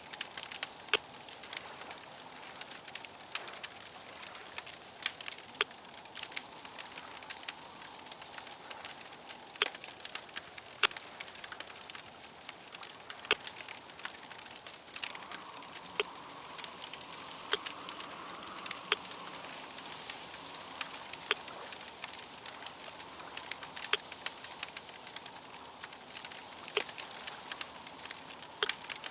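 Crackling fire: a steady low hiss with sharp, irregularly spaced pops and snaps, several every few seconds.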